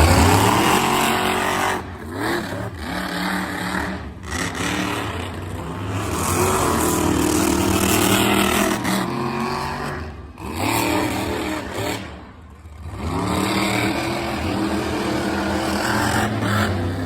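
Monster truck engine revving hard under full throttle. The throttle lifts and opens again several times, so the pitch drops and climbs back up, with a longer dip about twelve seconds in.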